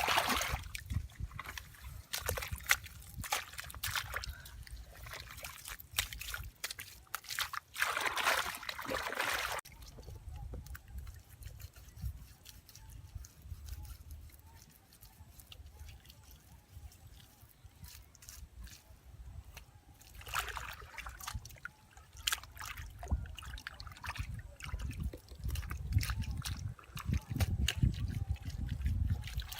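Water sloshing and trickling, with many small clicks and knocks and three short bursts of splashing noise.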